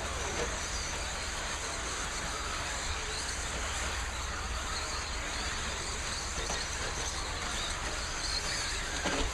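A field of radio-controlled stock trucks racing, their motors whining and tyres running on the track in a steady wash of noise. One or two trucks sweep past near the start and again near the end.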